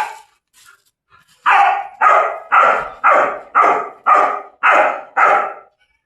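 German shepherd barking: a run of eight loud barks, about two a second, starting a second and a half in.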